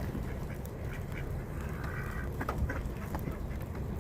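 Ducks quacking a few times over a steady low rumble.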